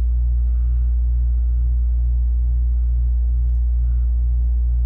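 Air-conditioning unit running with a steady, loud low hum.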